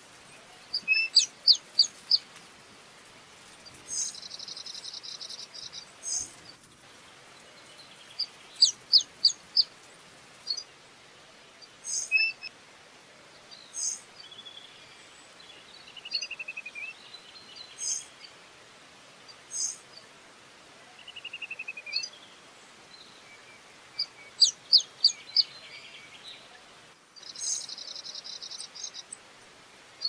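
Birds calling in the tree canopy. Groups of four or five sharp, high, quick notes come three times, buzzy high trills lasting about a second and a half come twice, and single short calls and two short falling rattles fall in between.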